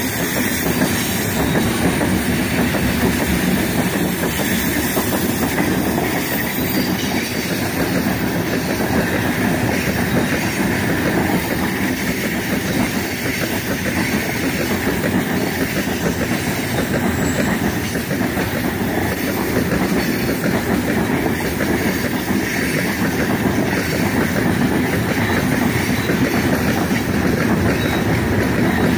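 Heavy freight train of loaded open gondola wagons rolling past close by: a steady, unbroken noise of wagon wheels running over the rails.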